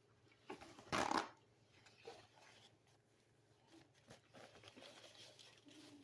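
Eating and food-handling sounds close to the microphone: a short, loud rustle about a second in, then faint scattered clicks and smacks.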